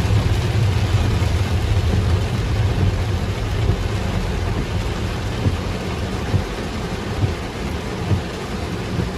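Heavy rain drumming on a car's windshield and roof, heard from inside the cabin, over a low rumble that eases off about two-thirds of the way through. A few brief thumps stand out from the rain.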